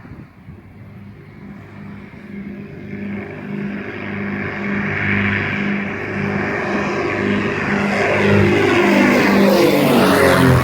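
Private propeller plane coming in to land and passing low overhead: the engine and propeller drone grows steadily louder, and near the end its pitch starts to fall as it goes over.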